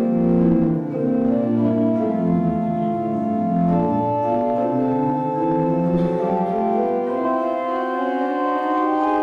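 Organ playing a hymn in slow, sustained chords that change every second or so.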